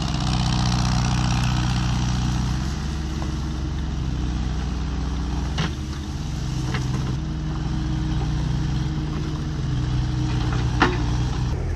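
Excavator's diesel engine running steadily while working, with a few sharp knocks, the loudest near the end.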